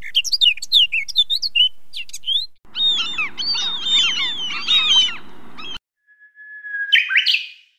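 Birds chirping and twittering in many quick, high calls, in two stretches that each cut off abruptly. Near the end a short whistle-like tone holds, then sweeps up.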